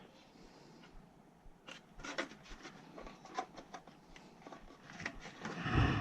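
Scattered light clicks, taps and rubbing from hands handling furnace parts, with a duller thump near the end.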